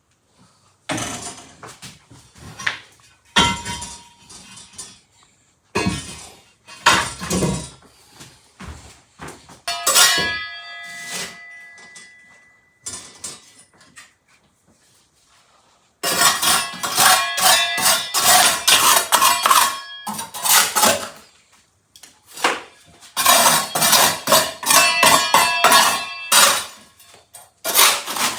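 Metal objects clattering and knocking. About ten seconds in, one strike leaves a ringing metallic tone. Later come two long bouts of fast, dense clattering or scraping.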